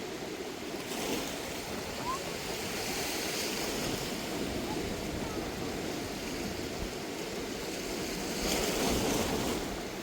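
Steady rush of a river in flood, swollen after heavy rain, swelling louder for about a second near the end.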